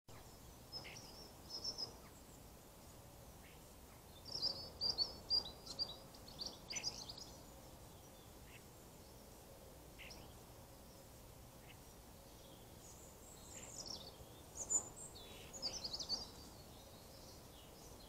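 Small garden birds chirping and singing in short clusters of high-pitched notes, busiest about four to seven seconds in and again a few seconds before the end, over a faint steady background hiss.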